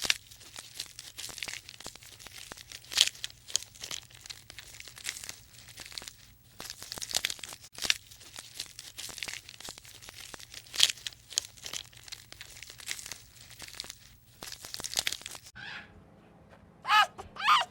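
Irregular crunching and crinkling, dense clicks and rustles that stop about fifteen seconds in. Near the end come a few short, high, pitch-bending whining calls from an animal.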